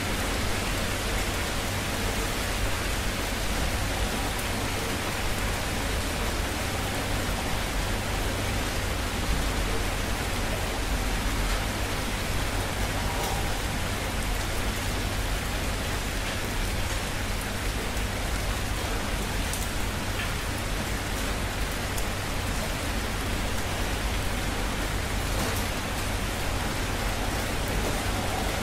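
Steady rain falling: an even hiss, with a few separate drops ticking through it.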